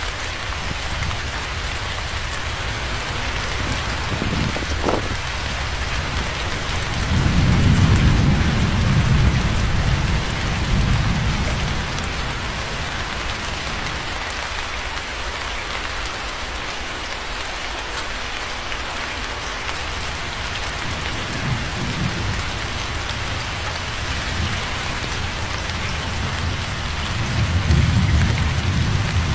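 Steady rain falling, with low rolling thunder: one long rumble swelling about a quarter of the way in, another building near the end.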